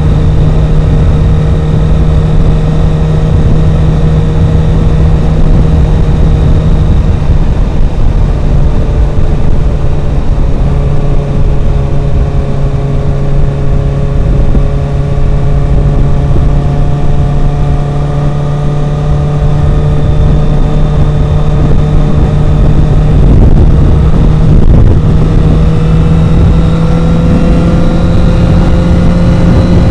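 Wind buffeting the microphone inside a motorcycle helmet at road speed, a heavy low rumble over the steady note of the motorcycle's engine through its Yoshimura R77 exhaust. The engine note sags slightly midway and climbs again near the end.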